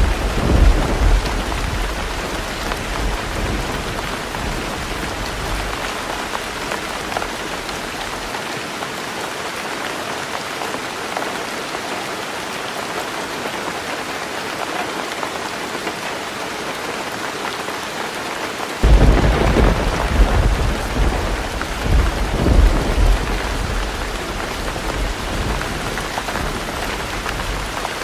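Heavy rain falling steadily on a roof. A low rumble of thunder dies away in the first several seconds, and about two-thirds of the way through another roll of thunder breaks in suddenly and rumbles for several seconds before fading.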